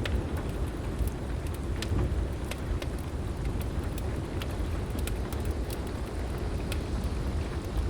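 Wood fire crackling with scattered sharp pops, about two a second, over steady heavy rain and a deep, continuous storm rumble.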